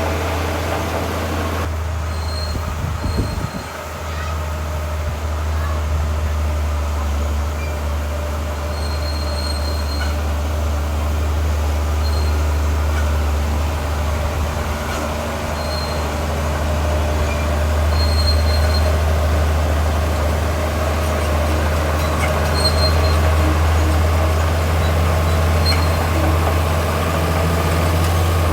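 Heavy diesel engine of a crawler bulldozer running steadily under load, with short high squeaks now and then.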